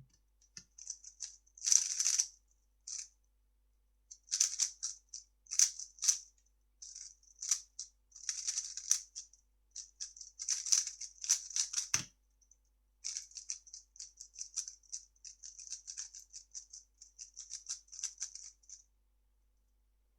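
3x3 speedcube being turned fast: bursts of quick, light plastic clicking and rattling as the layers snap round, with brief pauses between bursts. A single dull thump comes about twelve seconds in.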